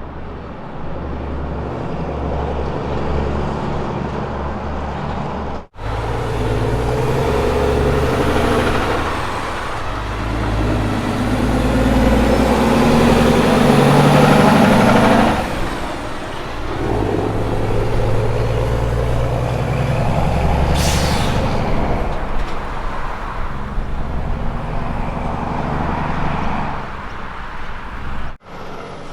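Road-train prime movers' heavy diesel engines working, in shots cut together with abrupt breaks about six seconds in and near the end; the engine sound swells loudest in the middle, and a short sharp hiss of air, typical of an air-brake release, comes about three-quarters of the way through.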